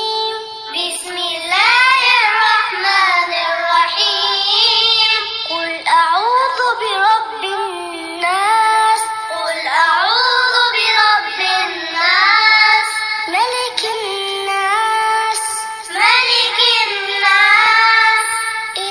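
A high voice reciting the Quran in a slow melodic chant, phrases of long held notes and pitch glides separated by short breaths.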